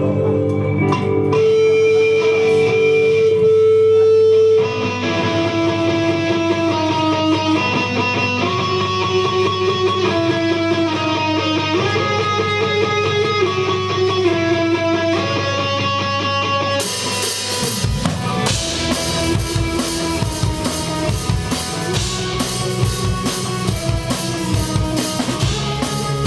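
Live rock band playing: a guitar melody over held notes, then about two-thirds of the way through the drum kit comes in with kick drum and cymbals and the full band plays on.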